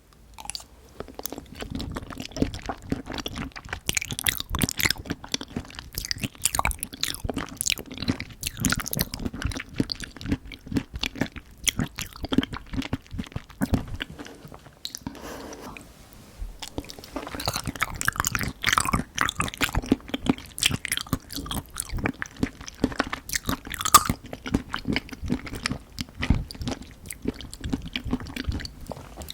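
Close-miked mouth sounds of eating Nanaco pudding: irregular chewing and crunchy bites with wet clicks, easing off briefly about halfway through.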